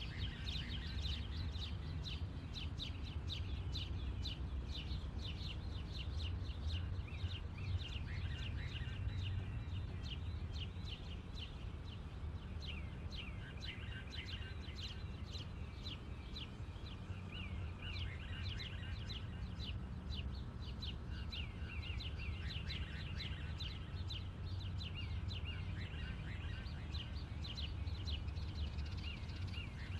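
Many small birds chirping and twittering in short high notes, over a steady low outdoor rumble.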